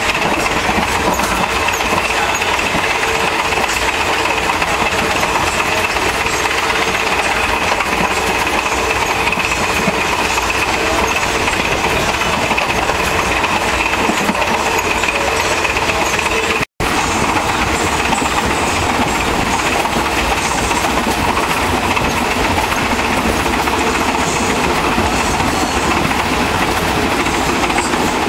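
Passenger train carriage running along the line, heard through an open door: a steady, loud noise of wheels on the rails with a faint steady whine above it. About two-thirds of the way through, the sound cuts out completely for a split second, then carries on as before.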